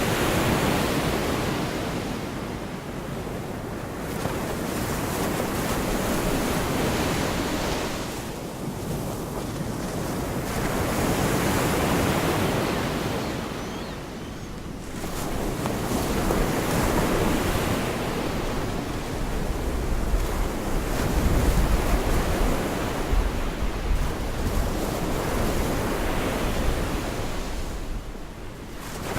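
Gulf of Mexico surf: waves breaking and washing up the beach, the noise swelling and easing every few seconds. Wind rumbles on the microphone, strongest past the middle.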